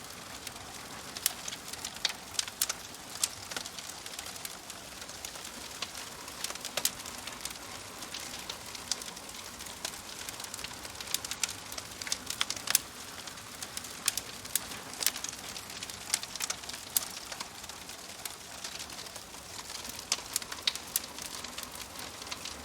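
Wood fire crackling: sharp, irregular snaps and pops over a steady soft hiss.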